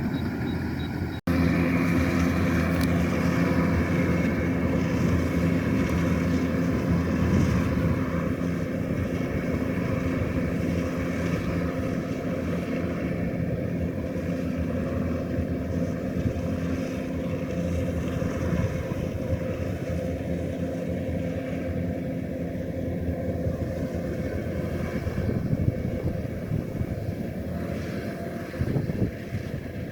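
Combine harvester's diesel engine running steadily at working speed, with a brief cut-out about a second in.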